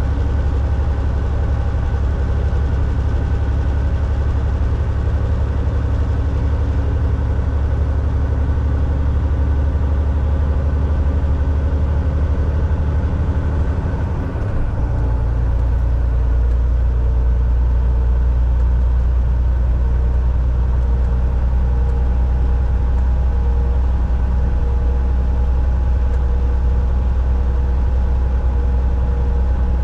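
Volvo VNL 760 semi truck's diesel engine running steadily under way, heard from inside the cab, with road noise. About halfway through, the engine note briefly drops in level and changes pitch, then settles into a steady drone again.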